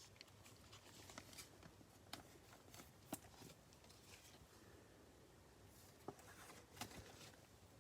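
Faint handling of baseball trading cards, with soft rustles and scattered small clicks as they are sorted and slid against one another, and a few sharper ticks about three and seven seconds in.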